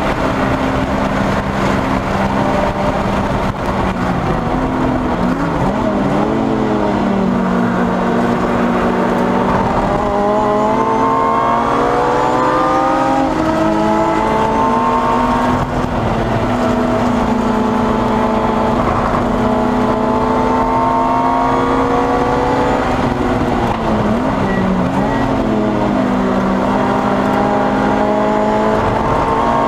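Lotus Exige S's supercharged engine heard from inside the cabin at racing speed. It holds steady revs, dips with downshifts a few seconds in and again about four-fifths of the way through, and climbs in pitch as it accelerates hard around a third of the way in and again near the end.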